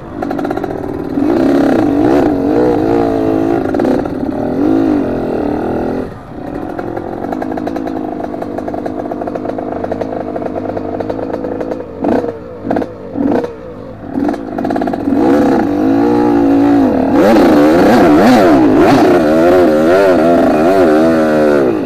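Trail motorcycle engine revving up and down under changing throttle, with a steadier stretch in the middle and a few short throttle blips around twelve to fourteen seconds in, then hard, rapidly rising and falling revs near the end that cut off abruptly.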